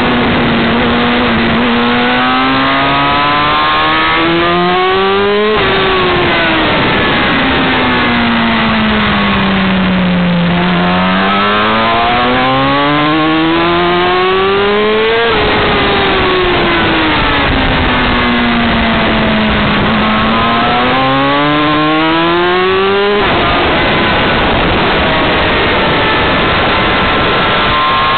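Yamaha R6 sport bike's inline-four engine at track speed, heard through the on-board camera under heavy wind rush. The engine note climbs, breaks off sharply, then sinks and climbs again, three times over.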